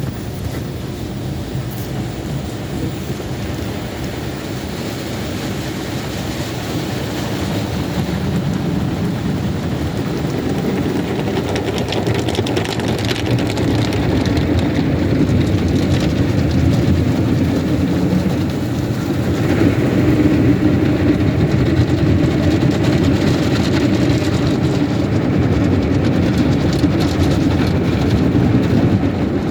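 Automatic car wash heard from inside a car: a steady rumbling rush of water spray and machinery over the car body, growing gradually louder.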